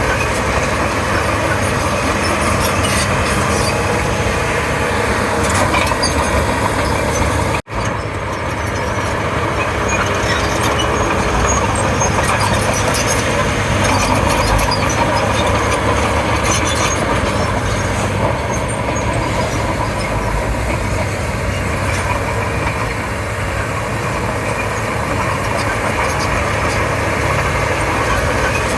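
Komatsu D31P bulldozer's diesel engine running steadily as the machine works. The sound cuts out for an instant about eight seconds in, then carries on the same.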